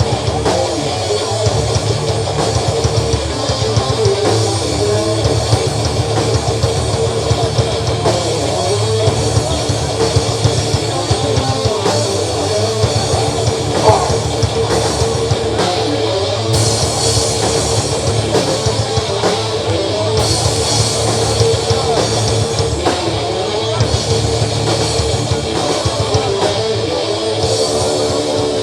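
Live rock band playing an instrumental passage with drum kit and guitar, loud and steady, with no singing.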